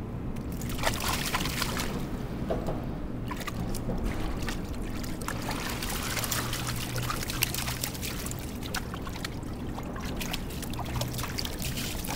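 Water splashing and trickling in a rapid, irregular patter of small splashes, over a steady low hum.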